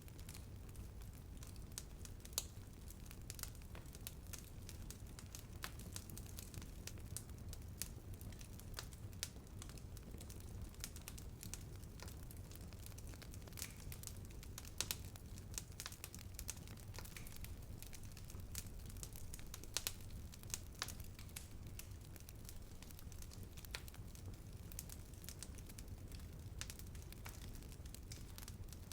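Wood fire burning, with irregular sharp crackles and pops over a low, steady rumble of flames; a few louder pops stand out.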